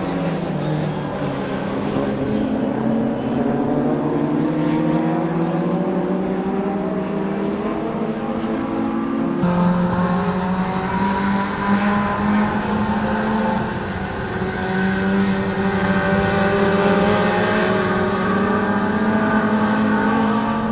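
Classic Mini race car's A-series four-cylinder engine running hard on track, its pitch rising and falling with throttle and gear changes. The sound changes abruptly about nine seconds in.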